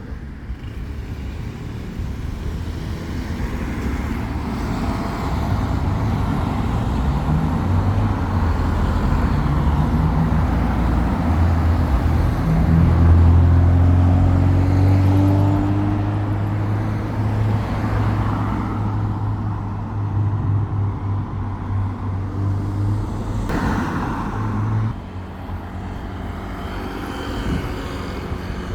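Motorcycle engine running at road speed, its pitch climbing as it accelerates in the middle stretch, over a steady rumble of road and wind noise. Twice near the end, oncoming vehicles rush past.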